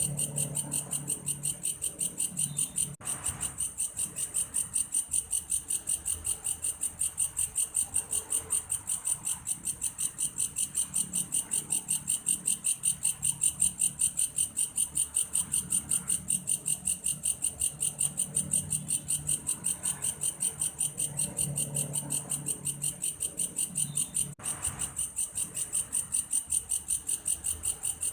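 Belalang kayu ('wood grasshopper') singing: a steady, high-pitched pulsing trill of about four pulses a second, much like a cricket's.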